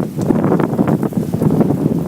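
Heavy rain pouring down in a storm, with wind buffeting the microphone in a dense, crackling rush.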